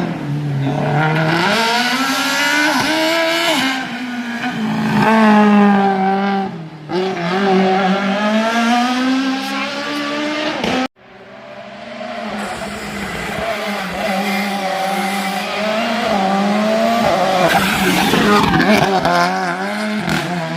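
Slalom race car engines revving hard, the pitch climbing and dropping again and again with gear changes and lifts through the chicanes. The sound cuts out sharply about eleven seconds in, then another stretch of hard revving follows.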